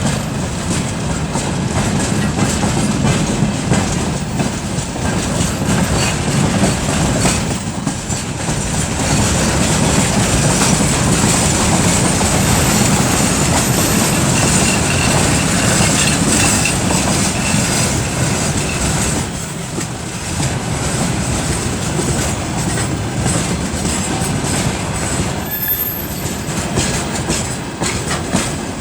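Freight train climbing a grade behind a 2TE10UT diesel locomotive: its 10D100 two-stroke opposed-piston diesel works steadily under load, with wheels clacking over rail joints and a steady high turbocharger whistle.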